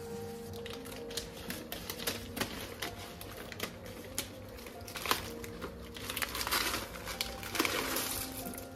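Irregular sharp clicks and taps, several a second, over faint steady background music.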